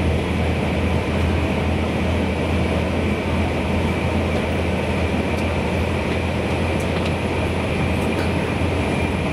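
Running noise of a passenger train heard from inside the car: a steady low rumble of wheels on rail and motors, with a faint steady high tone over it, the car apparently running through a tunnel.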